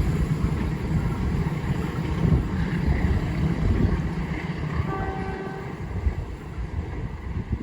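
A long train running past on the track, a heavy low rumble that slowly eases off. About five seconds in, a brief high tone of several pitches sounds over the rumble.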